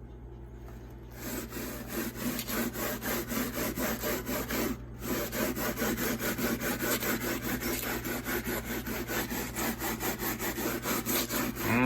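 Steel scouring pad scrubbing a refrigerator's side panel with cleanser, in quick back-and-forth strokes of about four a second, with a short pause about five seconds in.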